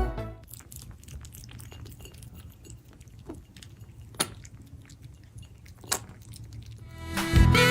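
Scattered light clicks and taps over a steady low hum, with two sharper taps about four and six seconds in.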